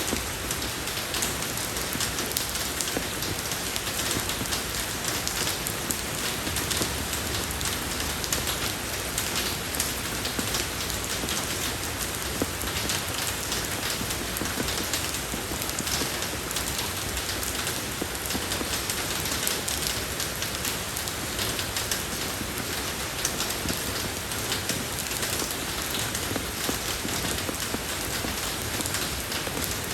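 Steady rain falling on a road surface, a dense even hiss made up of many small drop impacts.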